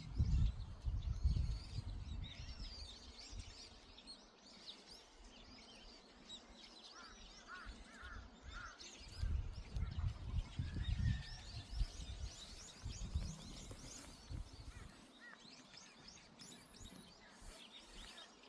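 Small birds chirping and singing over and over, with loud low rumbling bumps near the start and again about halfway through.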